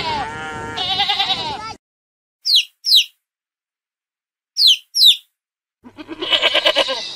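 Goats bleating with a quavering call, which breaks off in the second second. Then a chick peeps in two pairs of short, high, falling cheeps. Goats start bleating again about six seconds in.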